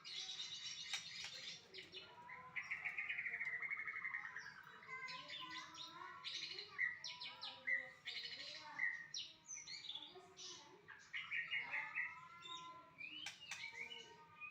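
White-rumped shama (murai batu) singing a varied, continuous song of whistled notes and rapid trills, including a falling trill a few seconds in.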